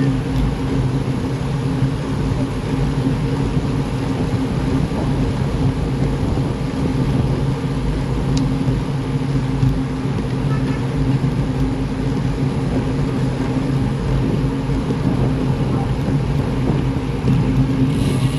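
Steady road and wind noise of moving along a road, with a low, even hum running under it and no pauses.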